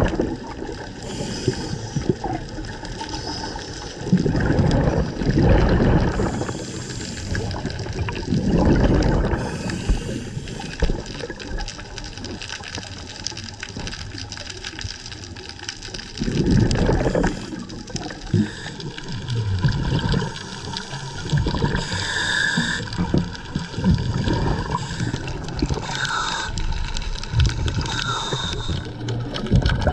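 Scuba regulator exhalation bubbles rushing and gurgling underwater, in surges every few seconds over a steady wash of water noise.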